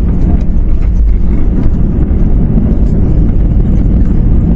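Airbus A321 landing roll heard from inside the cabin: a loud, steady low rumble from the engines and the wheels on the runway, with faint small rattling ticks.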